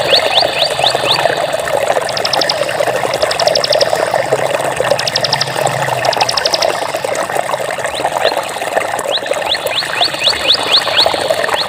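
Flowing water with a steady rush. Over it, quick series of short high rising chirps repeat at the start and again near the end, with four brief rapid high trills in between, from about two to seven seconds in.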